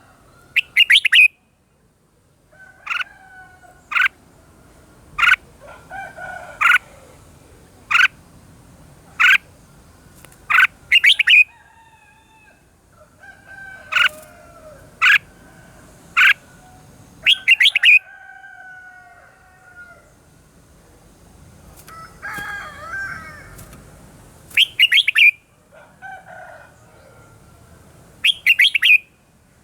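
Red-whiskered bulbul song: short, sharp notes repeated about once a second, broken several times by louder rapid trills.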